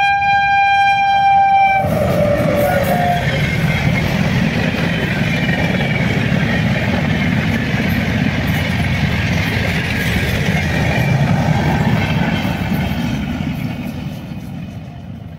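Electric locomotive's horn sounds one held note for about two seconds and cuts off, followed by the steady running noise of an express train's coaches passing close by. The noise eases off near the end as the train goes away.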